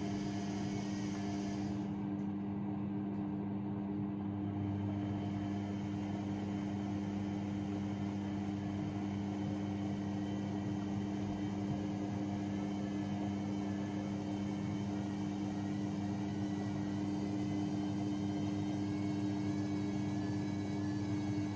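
AEG Lavamat 6610 washing machine running, a steady motor hum made of several even tones over a soft noise.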